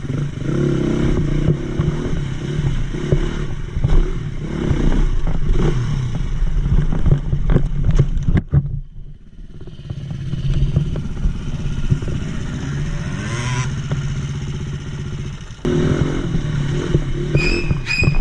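Enduro dirt bike engine running and revving unevenly, with clattering knocks as the bike struggles over rough ground. The engine drops off briefly about nine seconds in, then picks up again with a rising rev.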